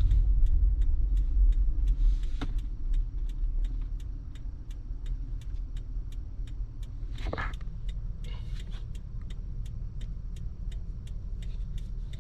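Lexus GX460's 4.6-litre V8 through a Magnaflow exhaust, heard from inside the closed cabin while driving: a steady low rumble, heavier for the first couple of seconds, then easing off quieter. A light regular ticking, about three a second, runs underneath.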